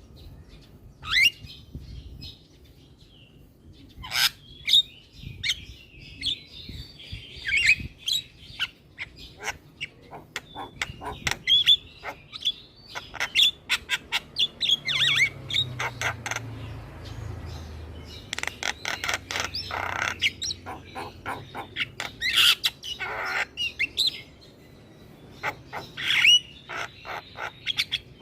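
Javan myna (jalak kebo) calling without pause: a busy, irregular string of harsh squawks, sharp chips and short whistled notes, with rapid-fire runs of notes about two-thirds of the way in and again near the end.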